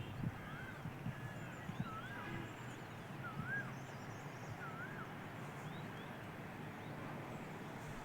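A bird calling repeatedly with short notes that rise and fall in pitch, about one a second, stopping about five seconds in, with fainter high chirps of other birds over a steady faint outdoor hiss.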